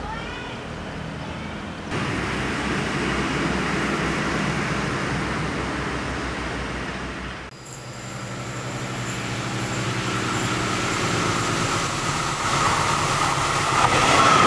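Diesel-hauled passenger train approaching on the line, its running noise growing steadily louder through the second half after a cut about halfway.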